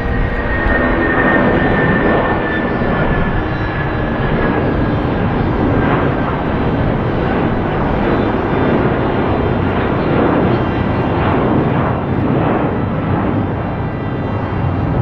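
Jet airliner engines running loud and steady as the aircraft passes close by, with a high whine that slowly drops in pitch over the first few seconds.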